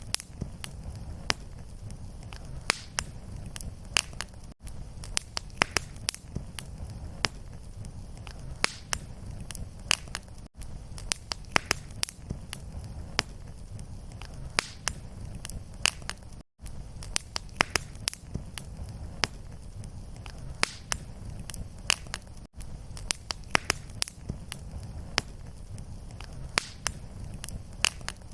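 Wood fire in a fireplace crackling and popping, with many sharp snaps over a steady low rumble of the flames. A brief silent gap recurs about every six seconds, where the fire recording loops.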